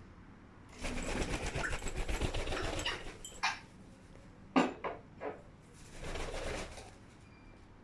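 A parrot drinking tea: rapid, even clicking and lapping from its beak and tongue in two runs, about a second in and again near the end, with a few short sharp squeaks or clicks between them.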